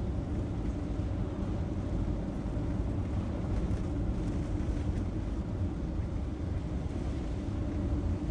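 Motorhome on the move: a steady rumble of engine and road noise.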